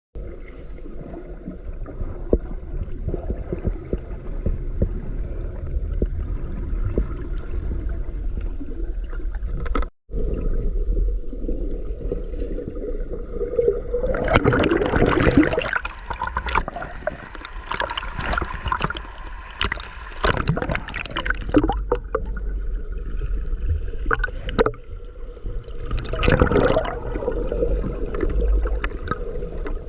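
Sea water sloshing and gurgling around a swimmer's camera, over a steady low rumble, with a brief dropout about ten seconds in and louder bursts of splashing about fourteen seconds in and again near twenty-six seconds.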